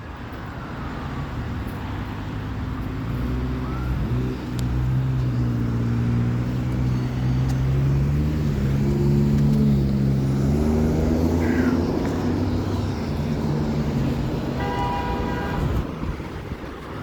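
A large motor vehicle's engine running close by, its low pitch stepping up and down a few times as it moves, with a short horn toot near the end.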